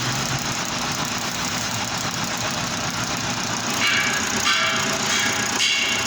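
Manual metal lathe running steadily while turning a stainless steel plate. From about four seconds in, high-pitched ringing squeals come and go.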